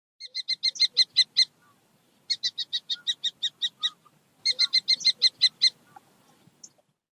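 A falcon calling in three quick series of repeated sharp notes, about seven or eight a second, each series growing louder.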